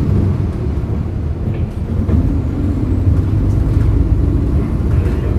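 Hyundai Green City CNG city bus engine running under way, a steady low rumble heard from on board the moving bus.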